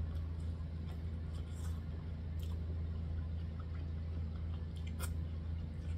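Faint chewing and mouth clicks from eating corn on the cob, a few short clicks spread through, over a steady low hum.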